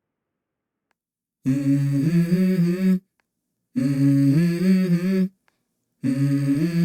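Silence, then a hummed vocal melody in three short phrases stepping between a few notes, starting about a second and a half in: the intro of the next song on the soundtrack.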